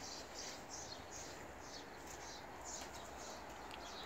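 A small bird chirping repeatedly and faintly, short high notes that each slide downward, about two a second.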